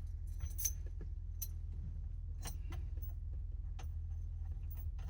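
Scattered light metallic clicks and clinks of hand tools and steering-wheel parts being handled, about eight to ten at irregular spacing, over a steady low hum.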